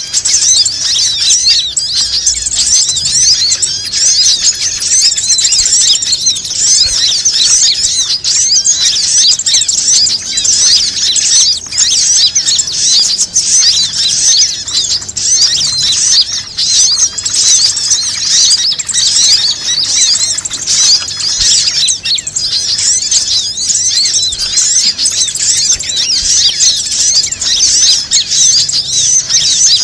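A dense, continuous chorus of many small birds chirping rapidly and high-pitched, the kind of flock recording played as a bird lure (suara pikat).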